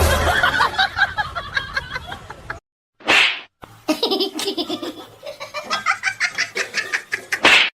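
People laughing in rapid, pitched bursts, broken by a short noisy burst about three seconds in and another near the end.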